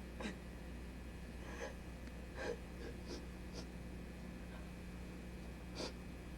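Quiet room tone: a steady low hum with about six faint, short sounds scattered through it.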